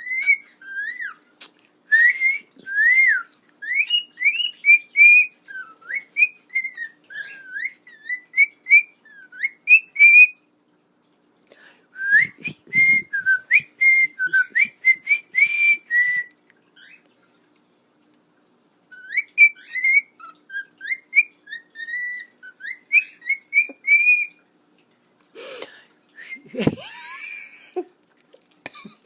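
Cockatiel whistling a tune in quick, gliding notes, in three runs separated by short pauses, followed near the end by a few lower, rougher sounds.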